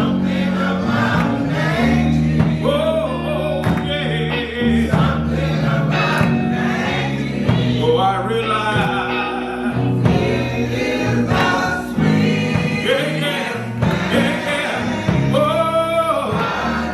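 Gospel choir singing with instrumental accompaniment, over sustained low held notes.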